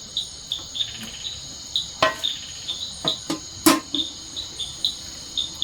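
Forest insects: a steady high drone with a short chirp repeating about twice a second. A few sharp knocks cut through in the middle, the loudest a little before four seconds in.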